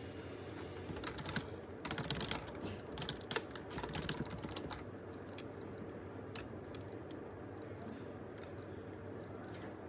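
Typing on a computer keyboard: a fast run of keystrokes for a few seconds starting about a second in, then slower, scattered key presses, over a steady low hum.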